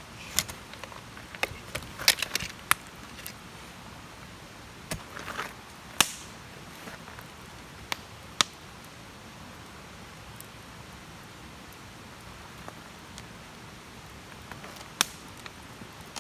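Campfire wood crackling, with sharp irregular pops: a cluster about two seconds in, then single loud pops around six, eight and fifteen seconds, over a steady low hiss.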